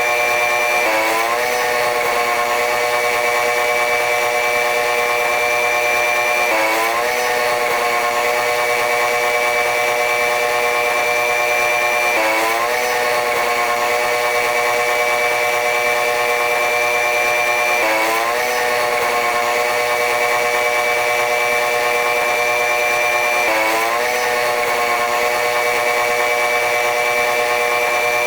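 Train running noise of a diesel-electric locomotive-hauled train: a steady hum of several tones with a high whine that slowly rises in pitch, then jumps back down about every six seconds, the same pattern repeating as if looped or sped up.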